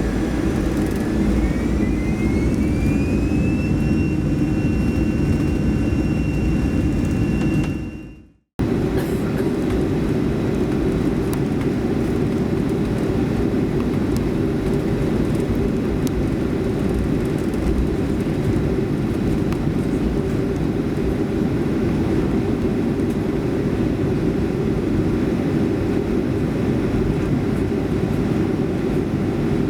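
Boeing 737-300's CFM56-3 turbofans spooling up for take-off, heard from inside the cabin: a rising whine over a low rumble that levels off about four seconds in. After a fade and a brief silence near eight seconds, a steady loud cabin roar of the engines carries on.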